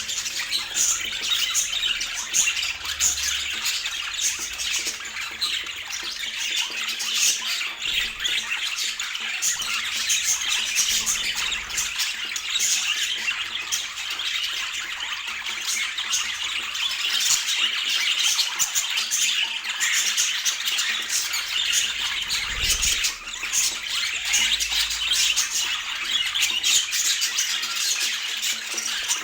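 Budgerigars chattering without a break, a dense stream of overlapping chirps and warbles.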